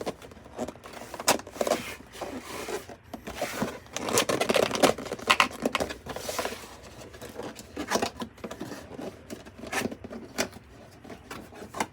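Cardboard box and packaging being handled and opened: irregular scraping, rustling and sharp taps, busiest about four to five seconds in.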